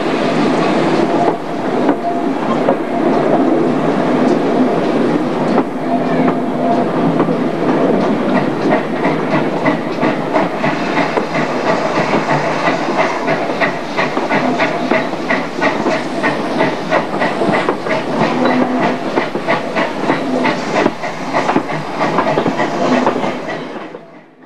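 Passenger train running on jointed track, heard from an open carriage window: steady rumble with the wheels clicking over rail joints and pointwork, the clicks coming thick and fast through the second half. The sound fades out near the end.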